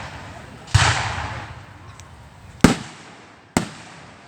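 Fireworks going off: a loud burst about a second in with a noisy tail that fades over a second or more, then two sharp bangs near the end, a little under a second apart.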